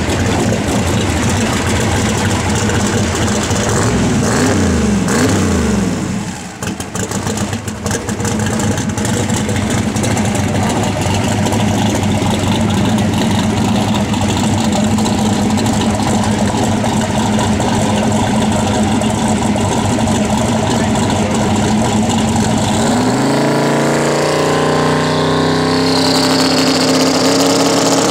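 Mustang drag car's engine idling loud and steady, with a couple of quick revs about four seconds in and a brief dip soon after. Near the end the engine note steps up to a higher, steady pitch as the car pulls forward.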